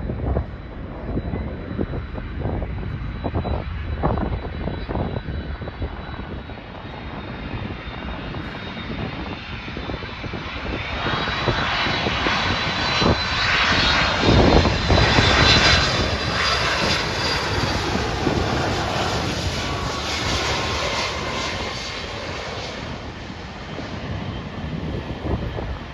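Jet aircraft on final approach passing low overhead: the engine rumble and high fan whine grow louder, peak about halfway through, then fade as it goes by.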